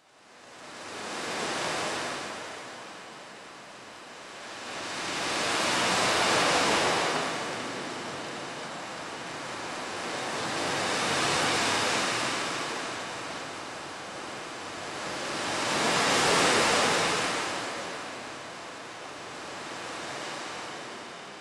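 Sea waves washing onto a shore, a steady rush that swells and fades about every five seconds.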